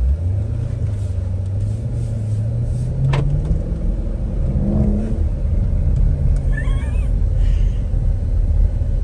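Jeep Grand Cherokee Trackhawk's supercharged 6.2-litre V8 heard from inside the cabin, accelerating, its note rising steadily in pitch over the first five seconds above a low rumble.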